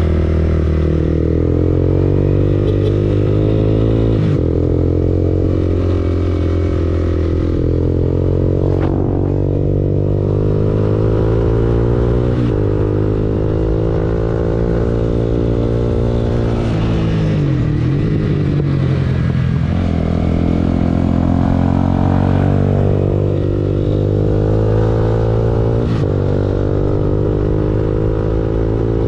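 Honda CBR250R single-cylinder engine running through an Akrapovic exhaust. The note holds mostly steady with brief breaks every few seconds, and near the middle its pitch falls and then climbs again.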